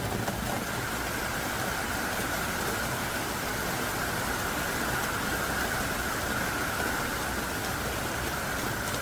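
Heavy downpour: dense, steady rain hiss, swelling slightly in the middle.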